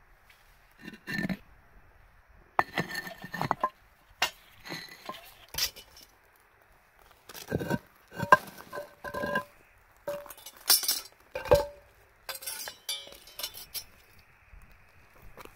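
A run of irregular clinks and clatters of hard objects being handled, several knocks leaving a brief ringing tone, like cookware or utensils knocking together.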